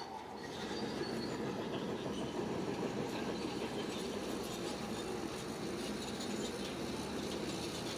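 Crawler bulldozer working, its engine running steadily with the noise of its steel tracks.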